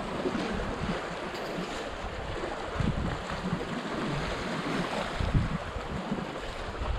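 Sea surf washing on rocks, with gusty wind buffeting the microphone.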